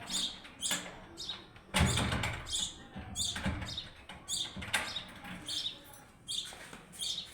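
Small birds chirping in short, repeated high calls, about one or two a second. A louder knock or rustle comes about two seconds in.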